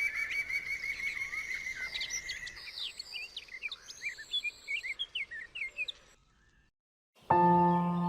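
Birdsong: a fast, even trill followed by many short, scattered chirps, stopping about six seconds in. After a brief silence, a sustained musical chord of held tones begins near the end.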